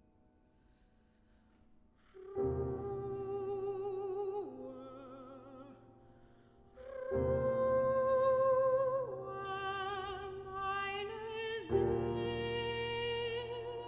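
Classical soprano singing long held notes with wide vibrato over piano chords. The piano strikes three chords, a couple of seconds in, about halfway through and near the end. It is near quiet before the first chord.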